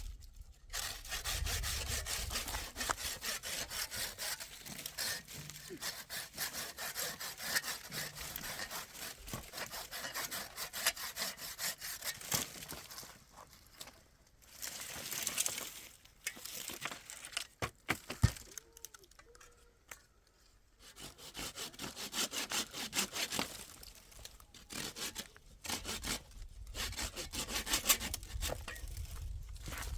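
A saw cutting through wood in long runs of rapid strokes, stopping briefly a few times around the middle.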